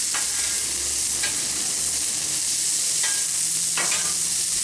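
Ground-beef burger dogs and onions frying on a Blackstone flat-top griddle, a steady sizzle, with four short clicks scattered through it.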